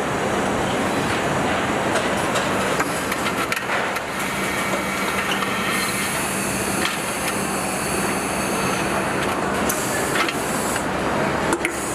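Truck assembly-line factory noise: a steady machinery din with a low hum and scattered clicks and knocks from tools and parts.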